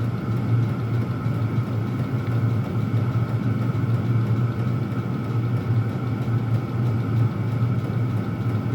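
Several Chinese diesel air heaters running at once: their blower fans and burners make a steady low hum with a faint high whine over it.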